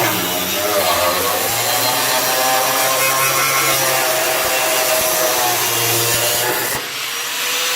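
Electric angle grinder with a cutting disc, cutting through old welded steel car-body metal. The cut stops about seven seconds in, and the motor's whine then starts slowly falling in pitch as the disc spins down.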